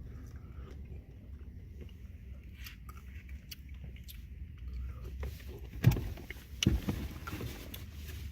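Eating ice cream: small clicks and scrapes of eating, with two louder low thumps about six and seven seconds in, over a steady low rumble.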